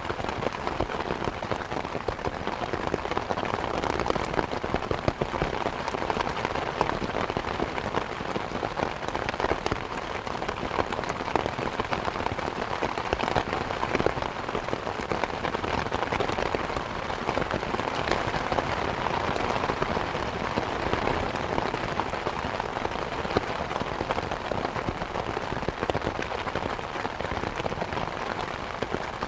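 Steady rain falling, a dense even wash with many separate drops ticking through it.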